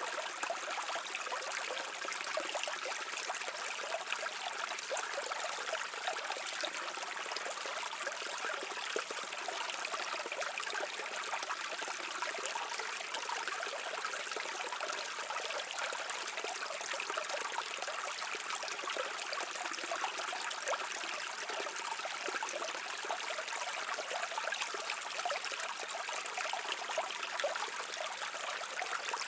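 A brook flowing: a steady babble of running water with a fine, even splashing.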